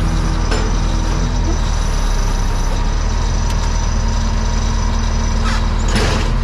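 An engine running steadily at a constant speed, with a couple of brief knocks, one about half a second in and another near the end.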